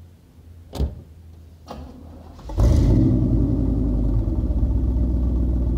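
A door shuts with a sharp thump about a second in, then the custom 1987 Chevy S10's 350 TPI small-block V8 starts after a brief crank about two and a half seconds in and settles into a steady, rumbling idle.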